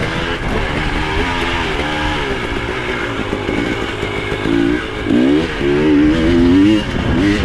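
Dirt bike engine revving up and down as it is ridden, its pitch climbing and falling with each throttle change. About five seconds in there is a hard pull, held high for about a second before it eases off.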